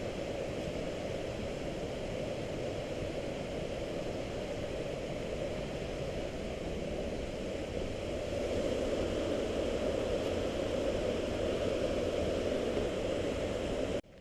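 Steady rushing noise, getting a little louder about halfway through and cutting off abruptly at the end.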